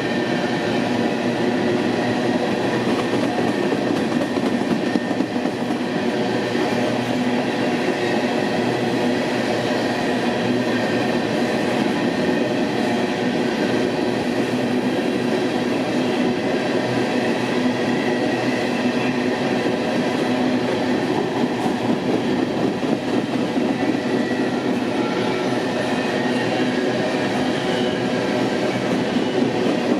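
Empty coal train's hopper cars rolling past steadily, a continuous rumble and rattle of wheels on rail with faint high wheel-squeal tones.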